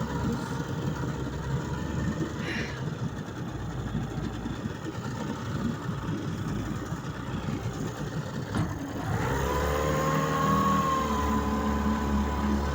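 Vikhr outboard motor running on test: a rough, uneven low rumble, then a click about nine seconds in, after which the engine settles into a steady, higher-pitched run.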